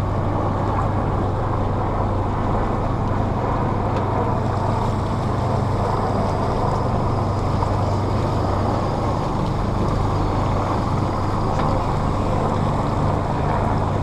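Motorboat engine running steadily at cruising speed, a constant low hum mixed with the rush of water and wind on the microphone.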